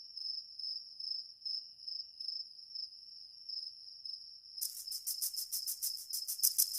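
Crickets chirping: a steady high trill, joined about four and a half seconds in by a louder, faster pulsing chirp.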